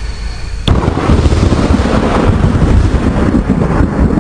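Thunderstorm sound effect: a sudden crack of thunder under a second in, then continuous rumbling thunder and rain.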